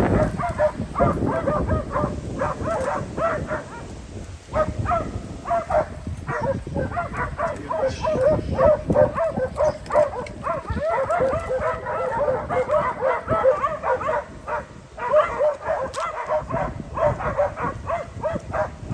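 West Siberian Laika hunting dogs barking in rapid, continuous volleys: bay barking at a bear they have brought to bay.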